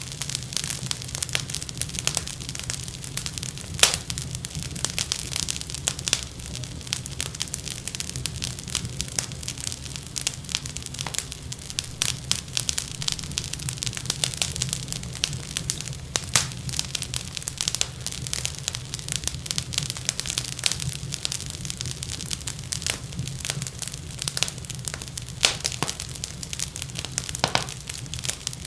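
Wood fire crackling in a fireplace: a continuous stream of sharp pops and snaps over a low steady rumble of the flames, with a few louder pops.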